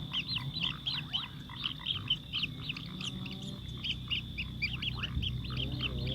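House sparrows chirping in a fast run of short, repeated chirps, several a second, thinning briefly a little past the middle.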